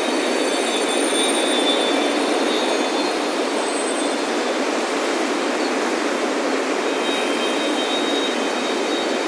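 Ocean surf washing steadily onto a beach, with wind chimes ringing lightly at the start and again near the end.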